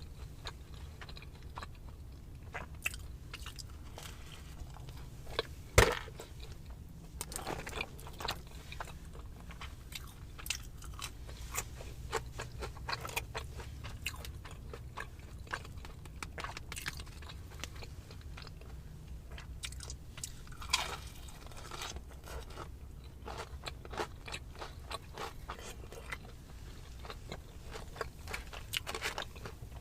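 Close-miked eating of Raising Cane's food: wet chewing and crisp crunching bites, with many small irregular clicks. One sharp, loud click about six seconds in stands out, and a steady low hum runs underneath.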